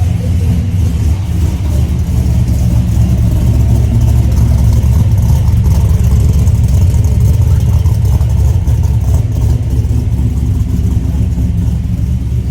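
Small-block Chevy ZZ4 350 V8 with a custom cam running through a full 3-inch exhaust with an X-pipe and Magnaflow mufflers: a deep, steady exhaust rumble that grows a little louder through the middle.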